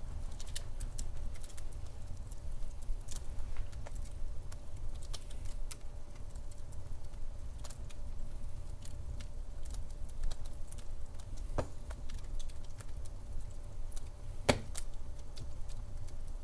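Wood fire crackling in a fireplace: irregular sharp snaps and pops over a low steady rumble, with two louder pops in the second half, the last one the loudest.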